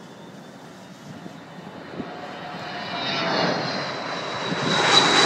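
Allegiant Air jet airliner's engines growing steadily louder as the plane approaches. A high whine rises over the rumble in the second half.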